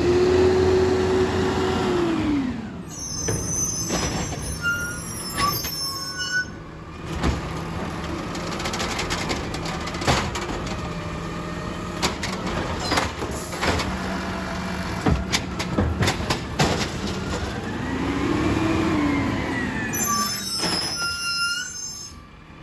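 Garbage truck working a trash pickup: its engine revs up and back down near the start and again near the end as the hydraulics run, with a series of knocks and clanks in between and two short hisses from the air brakes.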